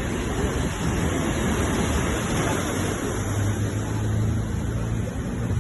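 Sea waves washing and surging in a continuous rush. A low steady hum joins in about three seconds in.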